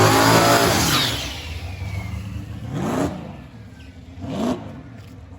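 Drag racing cars launching and running hard down the track. The engine noise is loudest in the first second and then fades, with two shorter bursts rising in pitch about three and four and a half seconds in.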